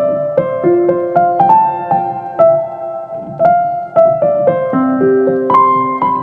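Background music: a gentle piano melody of single struck notes, each ringing and fading, over held lower notes.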